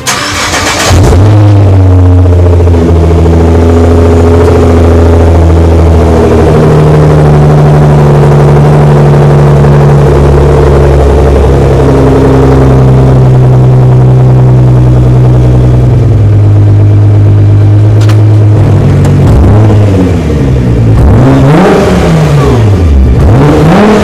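Car engine sound effect: the engine is held at steady revs that step up and down, then is revved up and down several times near the end.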